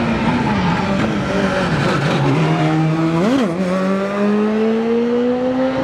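Rally car engine coming off the throttle with its note falling. About three seconds in there is a quick throttle blip, then the car accelerates away with the engine note climbing steadily.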